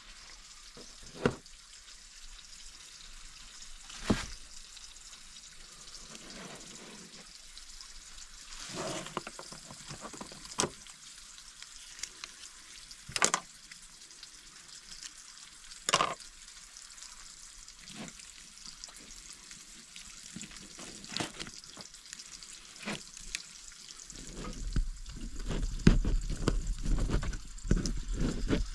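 Food frying over a campfire: a steady sizzle broken by sharp pops every few seconds. Near the end the crackling grows denser and louder, with low knocks.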